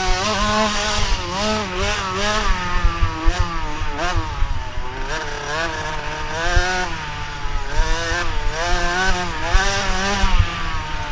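Motocross dirt bike engine revving, its pitch rising and falling over and over as the throttle is opened and closed.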